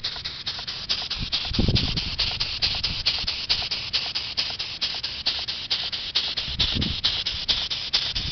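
Small handmade model steam engine running steadily, its exhaust puffing about five times a second in an even rhythm. Two brief low rumbles come through, about a second and a half in and near the end.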